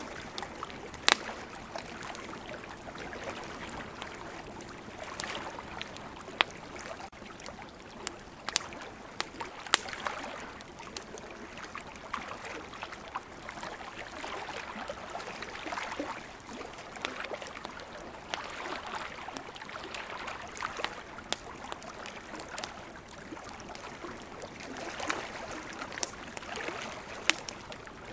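Wood campfire crackling, with sharp irregular pops every second or so, over a steady wash of ocean surf.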